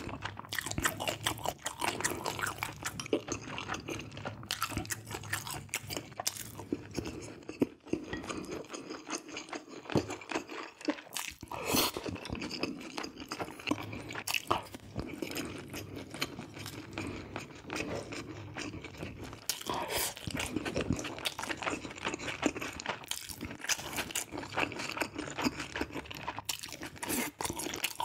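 Close-up mukbang eating sounds: chewing mouthfuls of braised red sea bream and rice, with many small irregular clicks and wet mouth noises.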